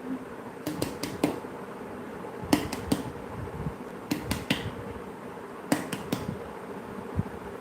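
Sharp clicks or taps in clusters of two or three, about every one and a half seconds, over a faint steady hum.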